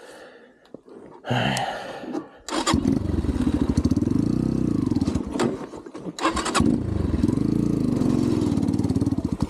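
Xpro Templar X 250cc dirt bike's single-cylinder four-stroke engine starting about two and a half seconds in after a quiet spell, then running with two rises and falls in revs. The carburettor's idle was set too low, so it kept bogging and stalling.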